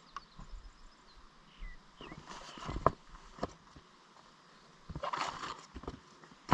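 Irregular knocks and scuffs, with one sharper knock about three seconds in and a short scrape about five seconds in.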